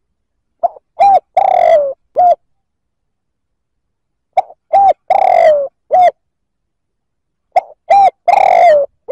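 Spotted dove cooing: three repeated phrases, each a short note, a coo, a longer drawn-out coo that falls in pitch at its end, and a closing coo. The phrases come about every three and a half seconds with silence between, a male's call used as a lure to draw in wild doves.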